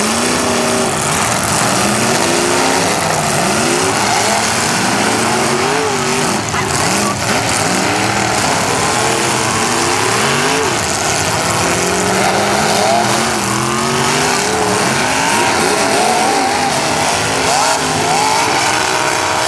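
Several demolition derby cars' engines revving at once, their pitches rising and falling over one another without a break.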